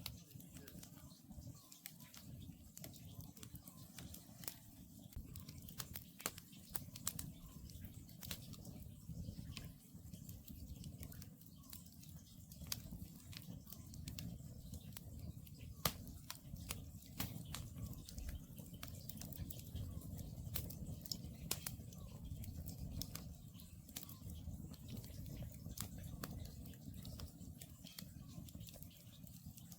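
Wood campfire burning, crackling with frequent irregular pops over a low, steady rumble of the flames.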